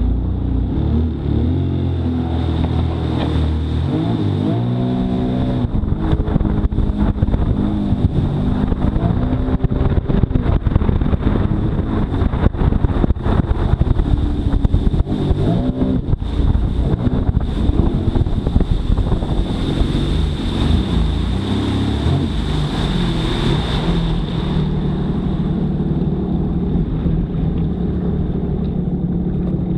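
Jet ski engine running and revving, heard muffled from inside the craft's storage compartment. Its pitch rises in several surges over a steady high whine.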